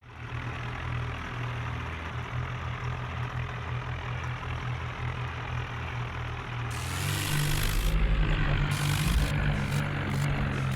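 Diesel tractor engine running with a steady pulsing beat. About seven seconds in it grows louder and deeper, and a loud rushing hiss comes and goes over it.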